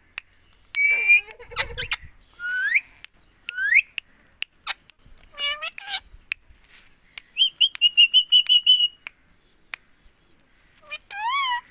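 Pet parrot whistling and calling: several rising whistled notes and arching squawky calls, with a quick run of about a dozen short chirps about two-thirds of the way in.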